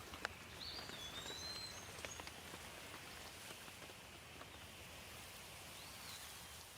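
Light rain falling steadily, with scattered drops ticking on a surface. A bird whistles faintly over it: a short call about half a second in, and a brief arched note near the end.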